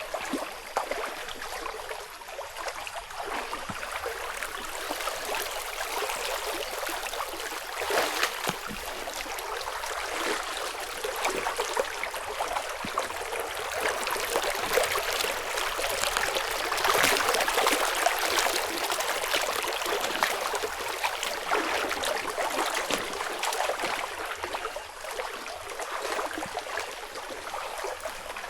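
Flowing stream water running steadily, with a busy splashing trickle that swells a little in places.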